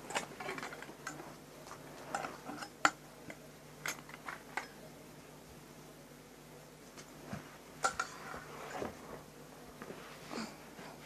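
Hard objects, likely plastic toys, being handled and set down: scattered clicks, knocks and clinks in irregular clusters, with a quieter stretch in the middle.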